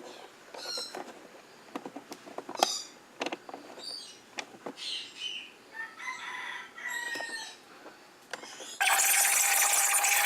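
Chickens clucking and a rooster crowing. About nine seconds in, an espresso machine's steam wand cuts in with a loud, steady hiss as it starts frothing milk.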